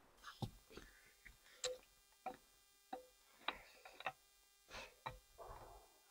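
Faint footsteps on the forest floor, a string of irregular crunches and small cracks about every half second with a soft rustle near the end.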